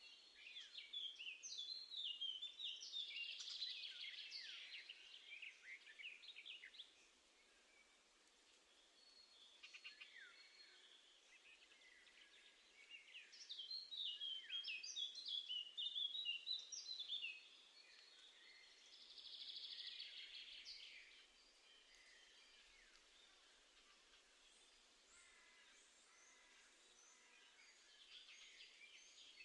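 Wild songbirds singing outdoors in several bursts of quick, high chirping phrases a few seconds long, with quieter gaps between, over faint steady background noise.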